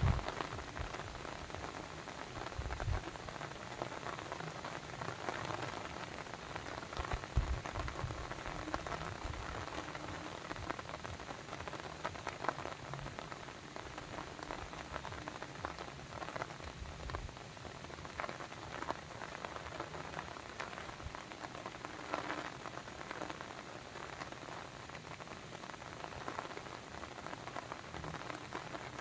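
Rain falling steadily, a continuous hiss of many small drop ticks, with a few low thuds in the first several seconds.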